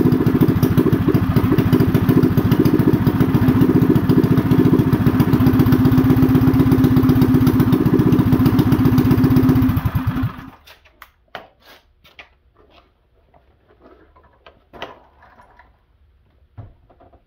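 Mini bike's small engine running steadily at a fast idle, with the newly fitted Wildcat WC22 carburetor, then shut off abruptly about ten seconds in. Faint clicks and knocks follow.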